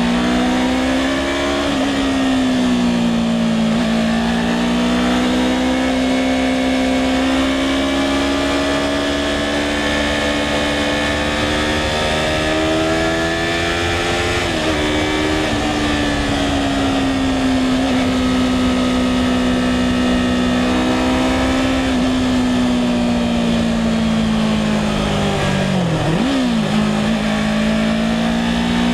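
A 2016 Yamaha R3's parallel-twin engine running under way at steady revs, its pitch slowly rising and falling with the throttle. There are a few short dips in pitch, the sharpest near the end.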